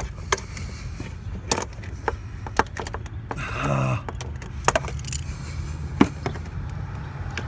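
Scattered sharp metal clicks and scrapes of hand tools working a hose clamp onto a car's top radiator hose, over a steady low rumble of passing road traffic.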